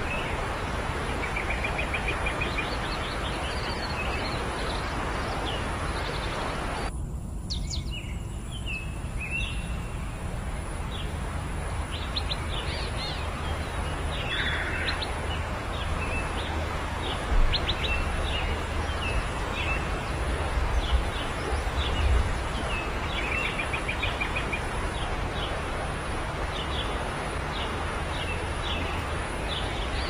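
Birds chirping: many short, high chirps over a steady background hiss, with a brief trill twice. The hiss drops out for a moment about seven seconds in, and a few low bumps come in the second half.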